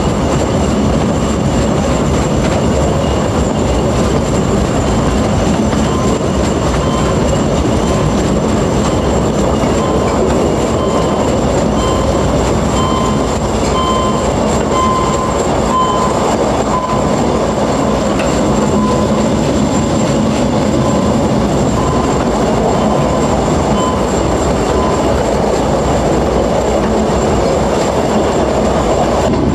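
Steam-hauled narrow-gauge park railway train running, heard from an open carriage: a steady loud rolling noise of wheels on track. A faint high tone comes and goes in short pulses through the middle.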